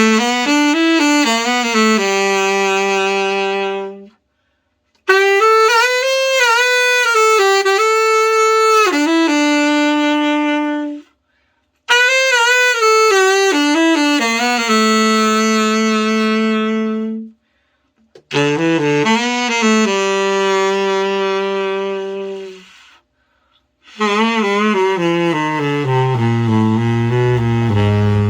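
Selmer Reference 54 tenor saxophone played solo in five short melodic phrases separated by brief silences, each phrase ending on a held note, the last one dropping into the low register. This is a play test of the horn after a full overhaul and setup.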